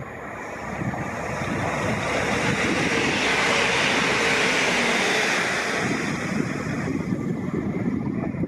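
A Northern diesel multiple unit passing close by at speed: a rushing noise of wheels on rail that builds, peaks around the middle and fades away.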